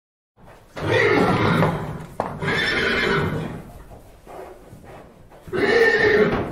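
Horses whinnying: three loud, long neighs, the first about a second in and the last near the end.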